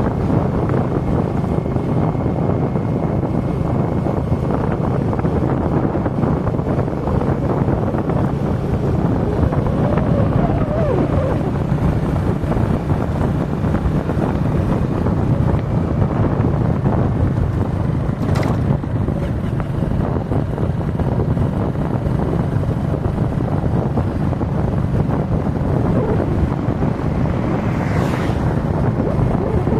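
Motorcycle ride on the open road: the engine runs steadily under heavy wind buffeting on the microphone.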